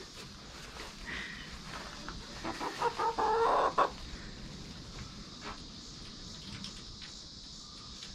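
Chickens clucking, with a louder run of calls a few seconds in.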